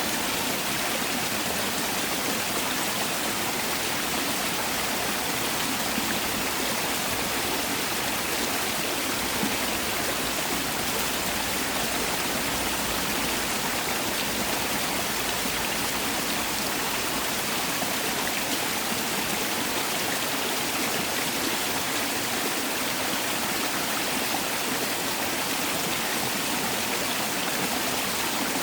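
Mountain valley stream rushing steadily over rocks, an even, unbroken rush of flowing water.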